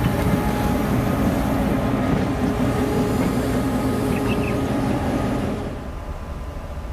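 A train running by: a diesel locomotive's engine drone with steady tones over a constant rumble. It falls sharply quieter and duller near the end.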